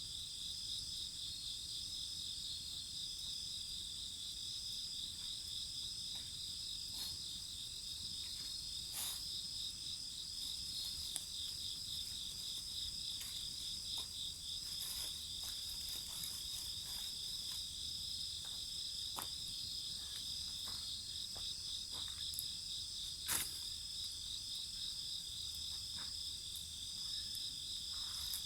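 Crickets and other insects chirping in a steady, pulsing chorus, with scattered sharp crackles and pops from a wood fire, one louder pop near the end.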